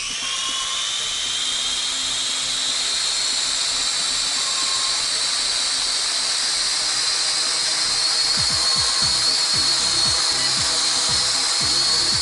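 Small MJX toy quadcopter's motors and propellers whining at a steady high pitch as it flies, hovering unsteadily; the pitch finishes rising from spin-up in the first moment.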